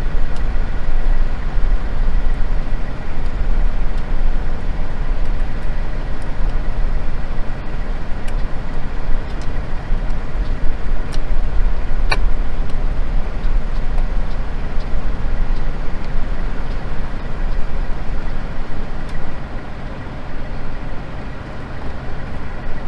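Semi truck's diesel engine idling steadily, with a few light clicks over it, the sharpest about halfway through, as a wiper blade is worked onto its arm.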